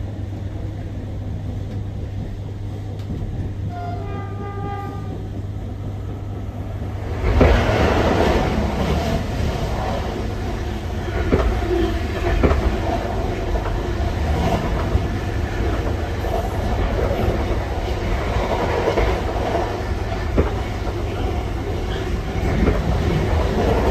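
Interior running noise of a Class 319 electric multiple unit: a steady low hum. About four seconds in a brief high tone sounds, and about seven seconds in the noise jumps suddenly to a louder rumble with wheel clatter and clicks that carries on.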